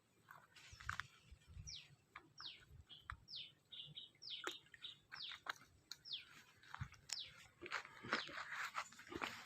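A bird singing a series of short, falling whistled notes, repeated roughly every second, with a few brief level notes in between. Scattered light clicks throughout and a louder rustle near the end.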